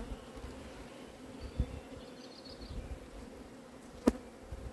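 Honeybees buzzing steadily around an opened hive, a low even hum. A sharp click sounds near the end.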